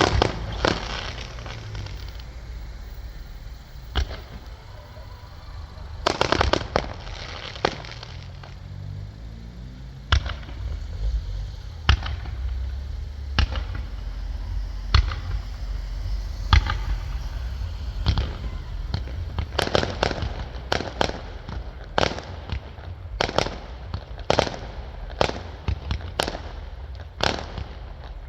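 Fireworks display: shells bursting with sharp bangs over a steady low rumble. There are crackling clusters near the start and about six seconds in, single bangs every second or two through the middle, and a faster run of bangs in the last third.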